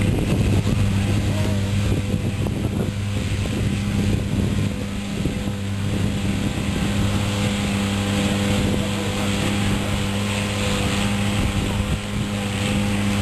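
Engine of a vehicle in a sled pull running steadily at a nearly constant pitch while pulling under load, over a rumbling background.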